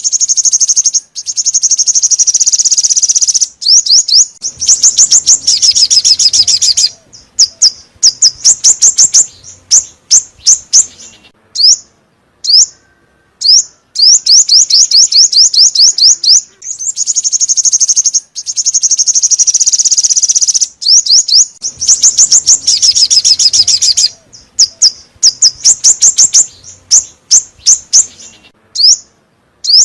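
Song of the five-coloured bird ('chim 5 màu') used as a trapping lure: quick runs of high, downward-sweeping chirps run together into long fast trills, broken by short pauses and scattered single notes. The same sequence repeats about halfway through.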